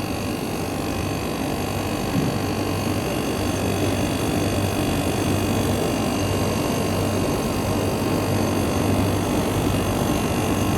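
Window air conditioner running: a steady whir from the double-shafted fan motor turning the condenser's axial fan and the evaporator's centrifugal blower, over a steady low hum from the compressor. The unit is running with a refrigerant charge judged good.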